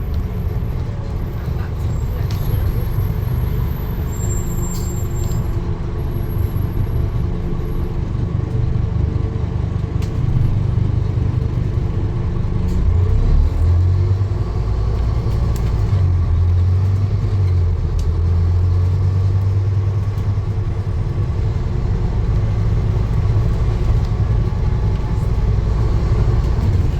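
A motor vehicle running: a steady low rumble that deepens and strengthens about halfway through.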